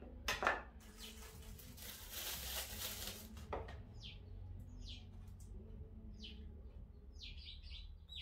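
Small birds chirping: short falling chirps come again and again, several close together near the end. About a second in there is a two-second rustle of a plastic bag being handled, and a couple of light knocks.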